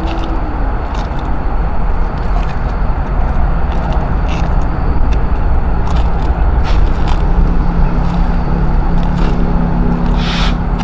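Loud, steady rumble of passing vehicles, with scattered light clicks and a short hiss near the end.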